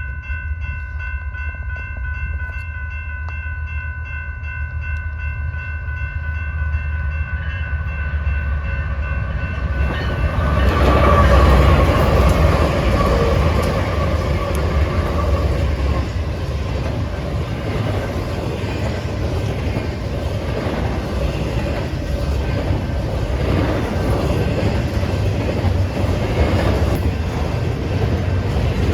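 BNSF intermodal freight train at speed: a steady multi-tone locomotive horn chord sounds for about the first ten seconds over a low engine rumble. Then the locomotives pass with a loud rush of noise, and the long string of cars follows with steady wheel clatter and clicks over the rail joints.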